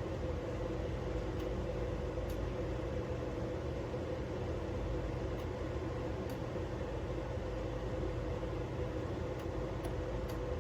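A steady machine hum with an even hiss, unchanging throughout, with a few faint ticks.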